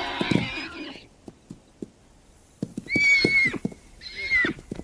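Wild stallions squealing as they fight: a harsh, raspy squeal breaks off about a second in, then two high, shrill squeals follow about three and four seconds in. Scattered hoof knocks sound in between.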